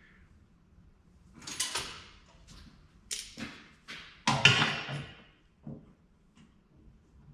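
Metal parts and tools being handled on a shop bench: a series of separate clanks and knocks, the loudest about four seconds in.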